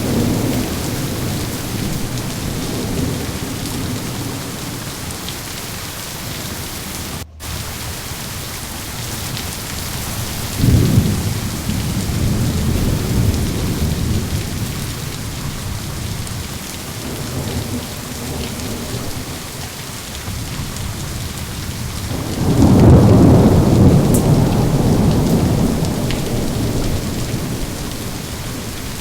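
Steady heavy rain with rolling thunder. A rumble breaks in sharply about a third of the way through, and a louder, longer rumble builds near the end and fades slowly. The sound cuts out for a split second about a quarter of the way in.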